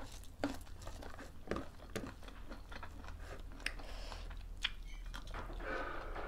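Close-miked chewing and lip-smacking of people eating rice and curry by hand: a string of short, irregular wet smacks and clicks.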